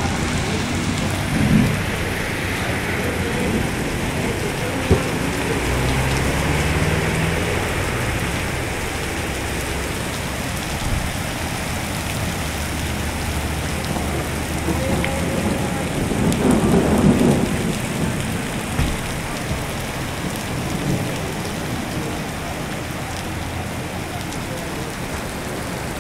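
Heavy rain pouring steadily onto a flooded asphalt parking lot, drops splashing into standing water.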